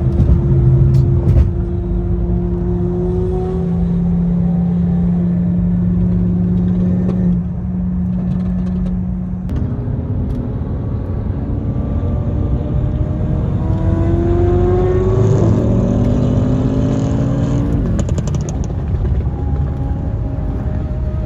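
Car engine running at a steady pitch, then accelerating through the gears about halfway through: the engine note rises, drops at each upshift, and rises again.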